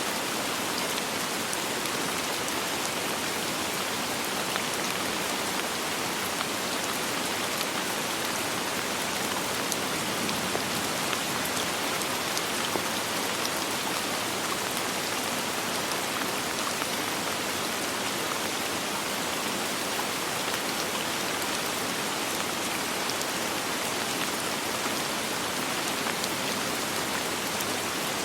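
Steady soft rain falling, an even hiss dotted with small drop ticks, with no thunder.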